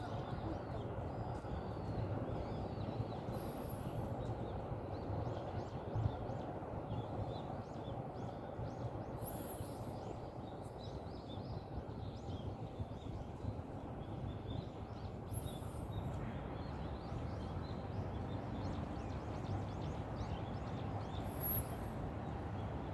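Steady outdoor background noise with a low rumble. Faint, short high-pitched chirps come about every six seconds, with a scatter of fainter small ticks in between.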